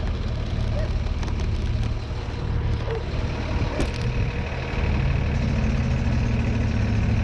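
A vehicle engine running steadily on the road, growing a little louder about five seconds in.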